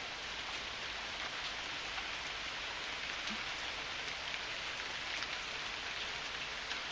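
Heavy rain falling steadily, a dense even patter with scattered sharper drop impacts.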